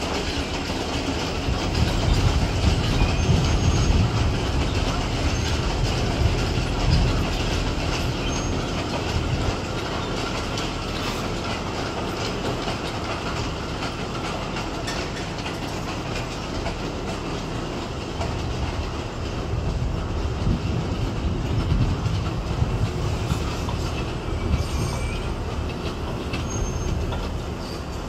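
Class S12 diesel multiple unit rolling past, its wheels clattering over the rail joints with a steady rumble and brief wheel squeals. It grows louder twice, a few seconds in and again near the end.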